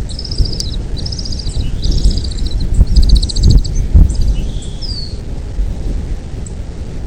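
Bald eagle calling in rapid, high-pitched chattering series of short repeated notes, ending with a single downward-sliding call about five seconds in. A loud low rumble runs underneath.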